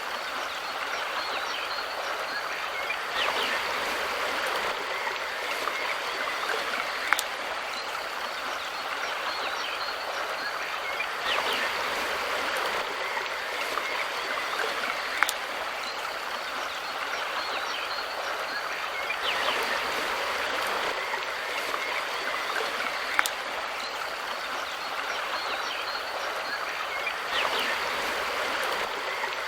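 A mountain river flowing steadily with an even rushing of water. A short sharp click sounds about every eight seconds.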